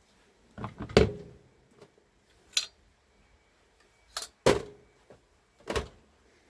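A series of sharp knocks and clanks of tools and parts being handled and set down during a power tool repair, about six in all, spread over several seconds. The two loudest, about a second in and just past the middle, ring briefly.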